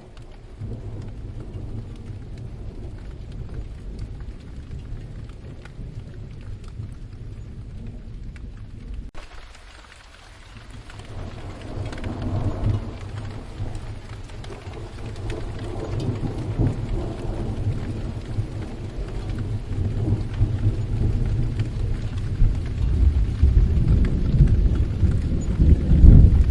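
Steady rain with rolling thunder. The rain's hiss changes abruptly about nine seconds in, and the thunder rumble then builds, loudest near the end.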